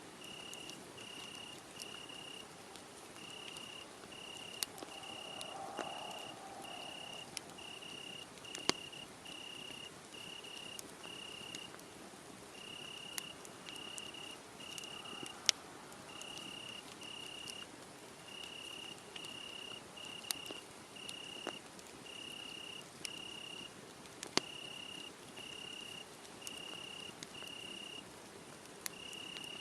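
A cricket chirping steadily at about two chirps a second, pausing briefly now and then, over a wood fire crackling with occasional sharp pops.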